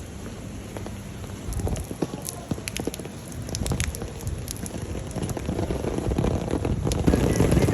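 Heavy rain, with sharp drop impacts ticking close to the microphone and a low wind rumble that builds and is loudest near the end.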